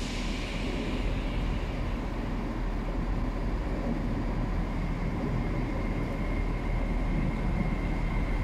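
TransPennine Express Class 802 bi-mode train running slowly into the platform, a steady rumble that grows slightly louder as it draws near. A thin high whine joins about five seconds in.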